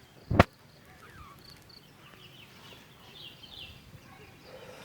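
A single sharp knock about half a second in, then faint, high bird chirps scattered through the rest.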